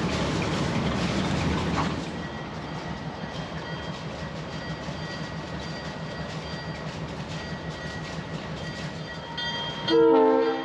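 A locomotive rumbles steadily, growing quieter about two seconds in. Near the end a train horn sounds one short, loud blast, a chord of several steady tones.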